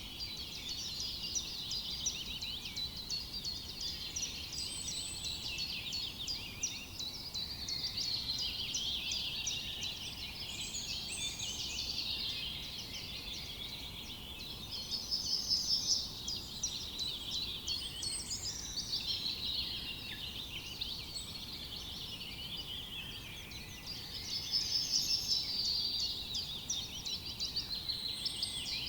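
A chorus of many small birds singing and chirping at once, a dense overlapping high chatter of trills and calls, swelling louder about halfway through and again near the end.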